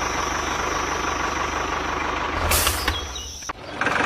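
Small motor of a DIY mini tractor running steadily, with a short hiss about two and a half seconds in. It cuts off suddenly at about three and a half seconds, and music starts near the end.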